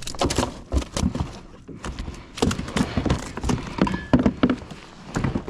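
A freshly landed fish flopping and thrashing in a plastic fishing kayak, making a rapid, irregular run of knocks and thumps against the hull.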